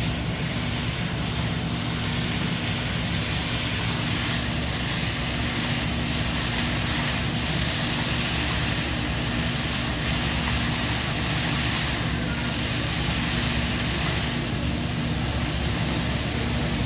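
Steady rushing hiss at a hibachi grill table: food sizzling on the hot griddle, under the low hum of the exhaust hood fan.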